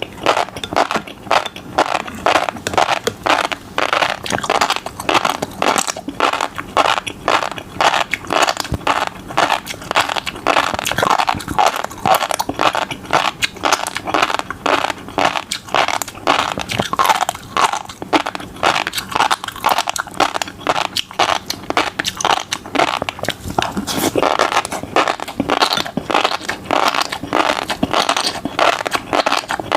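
Fish roe being eaten: a dense, continuous crackle of small pops and crunches as the beads are bitten and chewed, many per second.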